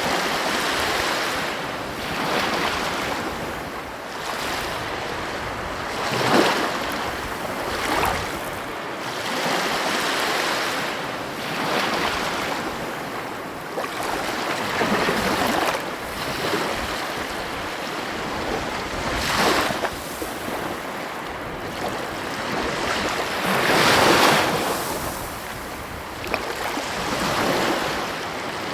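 Ocean waves breaking and washing on a beach, a continuous surf hiss that swells with each wave every few seconds, the loudest break about three quarters of the way in. Some wind on the microphone.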